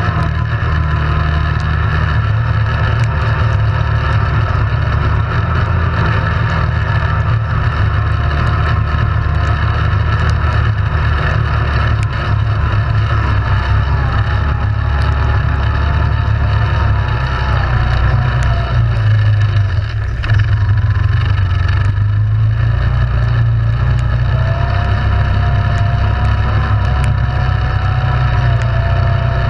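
ATV engine running steadily while under way, a loud continuous low rumble with a faint whine that wavers up and down in pitch.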